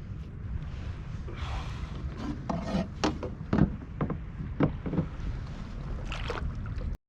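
Steady low wind rumble on the microphone, with scattered rubbing and knocking sounds on the kayak between about one and a half and six and a half seconds in.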